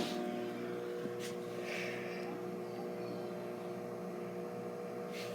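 Microwave oven running with a steady electrical hum while it heats food, a sharp knock right at the start.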